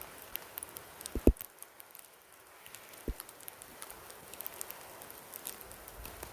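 Graupel (snow pellets) falling and ticking on the ground and surrounding surfaces: many scattered sharp little clicks over a faint steady hiss, with a couple of louder ticks about a second and three seconds in.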